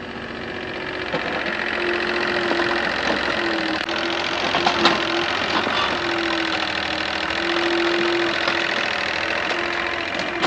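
A motor or engine running steadily with a fast rhythmic clatter, a held tone that breaks off and comes back several times, and a few sharp clicks.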